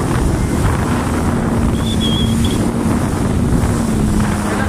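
Jet ski engine running at a steady pitch while underway, under heavy wind buffeting on the microphone and the rush of water.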